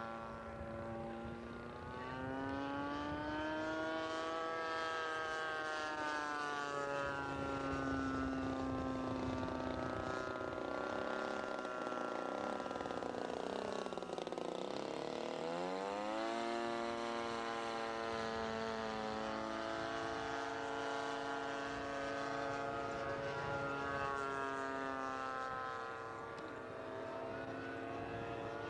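Engine of a giant-scale radio-controlled model airplane running in flight, with a steady propeller drone whose pitch wavers up and down. About halfway through the pitch sinks well down and then swings quickly back up before settling again.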